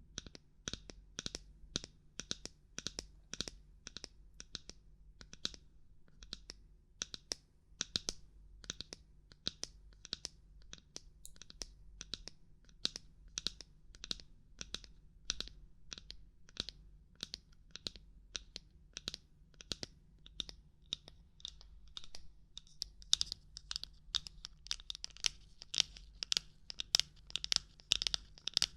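ASMR knocking and tapping on a hard object: a fast, irregular series of light, crisp taps, several a second, coming thicker and louder near the end.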